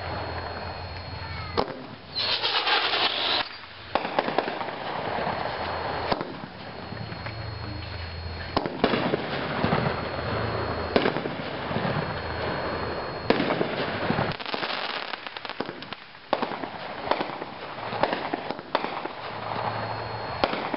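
Brothers 'Homecoming' 22-shot consumer firework cake firing: a string of sharp launch thumps and aerial breaks at uneven intervals. A dense, loud hissing burst comes about two seconds in and lasts about a second and a half.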